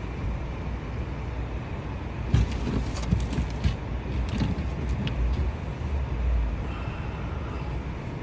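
Steady low rumble of a vehicle engine idling, with a few sharp clicks or knocks between about two and five seconds in.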